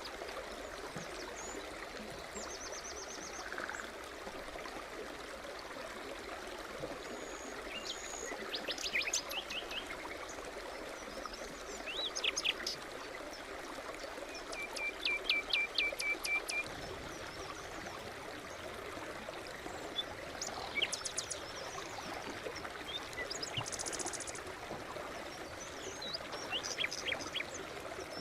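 A small brook running steadily over stones, with wild birds singing above it: scattered chirps and short trills, including a quick run of repeated notes about halfway through.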